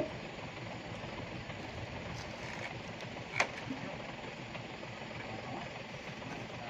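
Steady vehicle engine and road noise, with one sharp click about three and a half seconds in.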